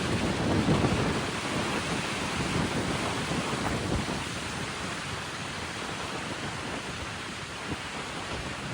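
Wind blowing across the microphone, a steady noisy rush with a stronger low buffeting gust in the first second or so.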